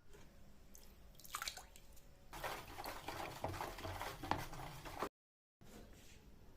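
Liquid splashing and trickling, with small clicks, from about two seconds in; the sound cuts off dead for half a second about five seconds in.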